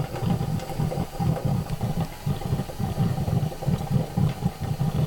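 An engine or motor running steadily with a regular low throb, about three to four pulses a second, and a faint steady tone above it.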